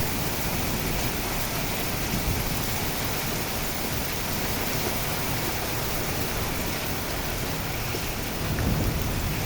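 Heavy rain falling hard and steadily, an even hiss of downpour.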